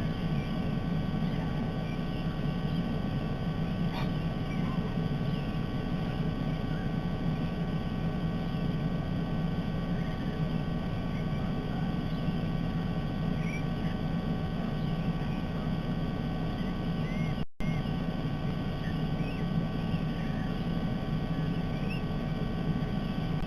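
Steady low drone and hiss of an outdoor nest-camera microphone, with faint short bird chirps now and then. The sound drops out briefly about seventeen seconds in.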